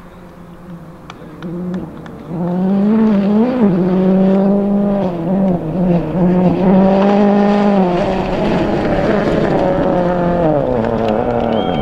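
Rally car engine under hard acceleration, coming in loud about two seconds in, a few sharp ticks before it. Its pitch holds high with short dips at the gear changes, then winds down over the last few seconds.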